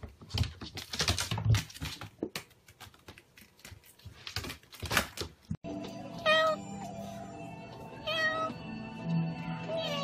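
A domestic cat meowing three times, each call a short pitched cry that bends in pitch, over background music. Before the calls, about five seconds of irregular knocking and rustling end abruptly.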